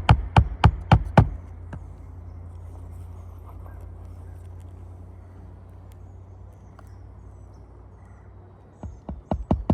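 Rapid hammer strikes, about four or five a second, during a roof shingle repair; they stop about a second in, leaving a steady low hum, and start again near the end.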